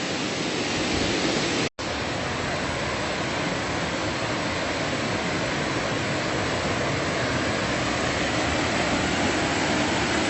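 Steady rush of water from a waterfall and its runoff stream, an even hiss with no let-up, broken once by a momentary dropout about two seconds in.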